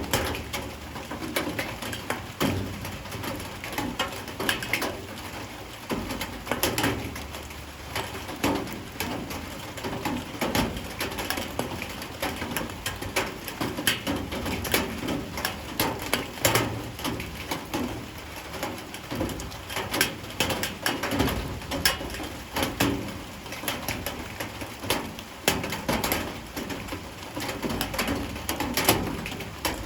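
Light rain falling, heard as a dense, irregular patter of drips and taps on nearby surfaces.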